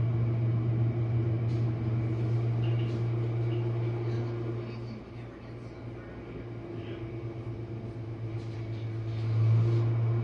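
Jenn-Air dishwasher running its wash cycle, its pump motor giving a steady low hum with water swishing inside the tub. The sound dips about halfway through and swells back near the end.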